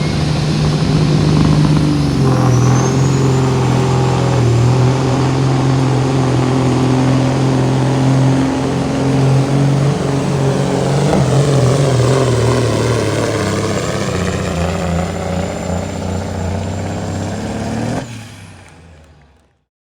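A truck or tractor pulling engine running hard at high revs, with a high whine that rises a couple of seconds in and then holds. The sound cuts off about two seconds before the end and fades away.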